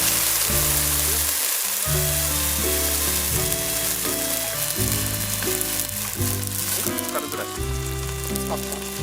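Pork belly sizzling and frying in hot fat in a stainless Dutch oven, a steady crackling hiss. Background music with changing chords plays under it.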